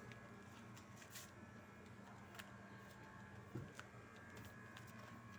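Near silence: faint room tone with a low steady hum and a few scattered faint clicks, one a little stronger about three and a half seconds in.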